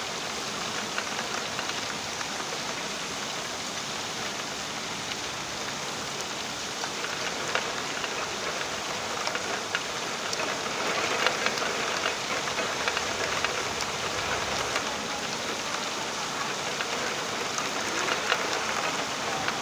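Steady rain falling: a constant hiss with many scattered sharper drop ticks, a little heavier from about halfway through.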